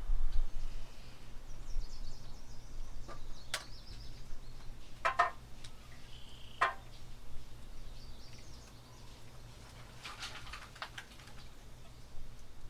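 A few short, light knocks and clicks a second or more apart, over a low steady hum.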